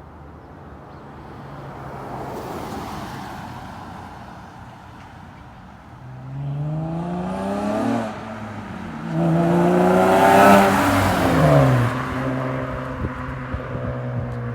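9th-gen Honda Accord's 3.5-litre V6 through a custom Magnaflow exhaust with J-pipe and two Magnaflow resonators, running at a low steady note, then revving up twice, the second rev higher and louder, before dropping back to a steady low idle.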